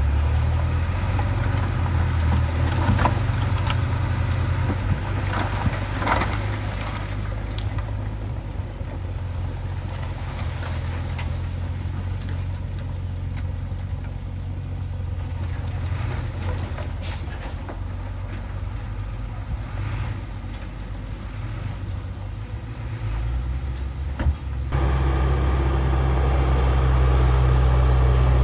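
Heavy diesel engine of earth-moving machinery running steadily, with a few short metallic clanks and a brief hiss. The engine gets suddenly louder about 25 seconds in.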